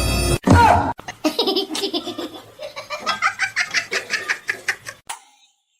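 Background music cuts off suddenly, then a short cry and a person laughing hard in quick rhythmic bursts, several a second, dying away near the end.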